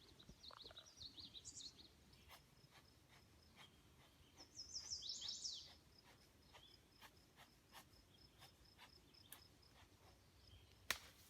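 Faint songbird chirping in two short runs of quick, falling high notes, with a thin high dotted trill and scattered light ticks. A sharp click comes near the end.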